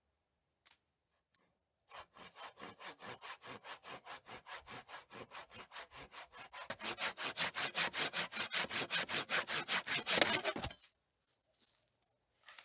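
Hand saw cutting through wood in quick, even back-and-forth strokes, about five a second. The strokes grow louder about halfway through, then stop.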